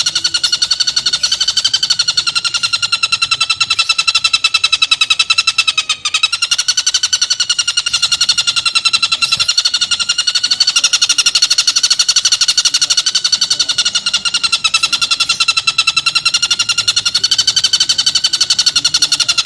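Tengkek buto (stork-billed kingfisher) giving a harsh, very rapid rattling call, the 'tembakan' burst, unbroken at a steady pitch with slight dips every few seconds.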